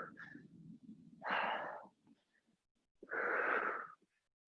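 Heavy breathing from exertion during a dumbbell interval: two long, forceful exhalations about two seconds apart.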